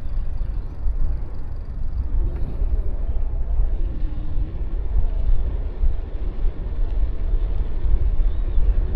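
City street traffic heard from a moving bicycle: vehicle engines pass with slowly wavering pitch over a steady, heavy low rumble of wind and road.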